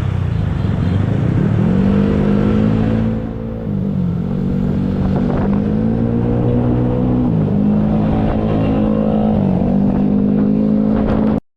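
Fire engine's engine accelerating hard through gear changes, its pitch climbing, then dropping at each shift about three times. It cuts off abruptly near the end.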